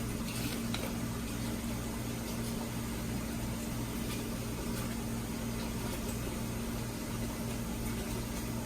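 Steady low mechanical hum of a kitchen appliance or fan, with a few faint light taps in the first second.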